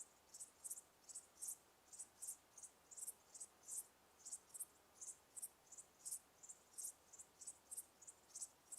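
Insects chirping faintly: short, high chirps, about three or four a second in uneven groups, over a soft steady hiss.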